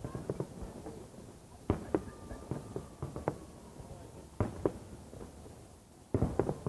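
Fireworks salute shells going off: sharp bangs at irregular intervals, with a tight cluster of bursts about six seconds in.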